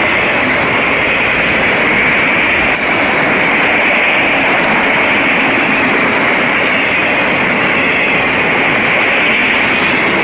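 Freight train of enclosed autorack cars passing close by at speed: steel wheels rolling over the rails in a steady, loud rush of noise.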